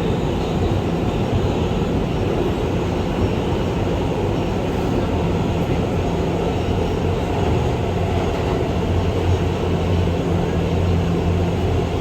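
An R211A New York subway train running at speed between express stations, heard from inside the car: a steady rumble of wheels and running gear, with a low hum that grows stronger in the last few seconds.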